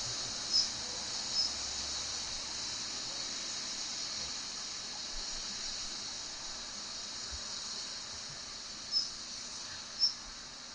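Female Daurian redstart giving its commonly heard short, high call notes, twice in the first second and a half and twice more about a second apart near the end, over a steady high hiss.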